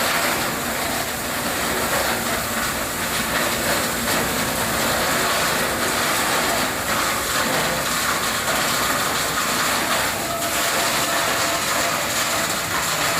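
Hyundai four-axle dump truck running, a loud, steady mechanical noise.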